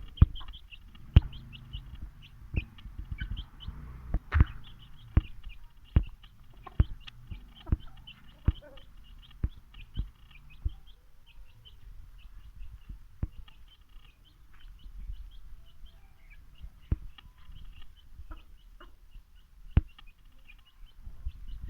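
Aseel chickens clucking and making short high chirps throughout, with sharp irregular knocks or taps, frequent in the first half and sparser later.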